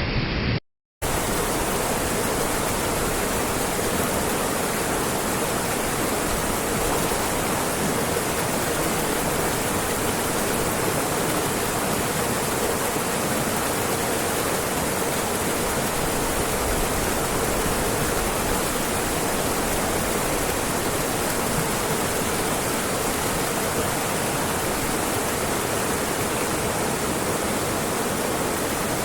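Steady rush of falling water from a waterfall. It breaks off into silence for a moment just under a second in, then runs on unchanged.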